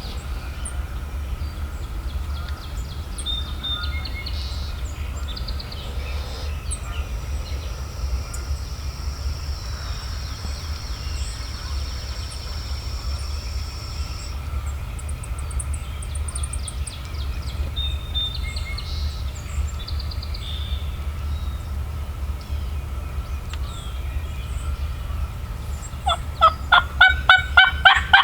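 A wild turkey gobbler gobbling loudly near the end, a rapid rattling run of notes. Before it, small songbirds chirp here and there over a steady low background rumble.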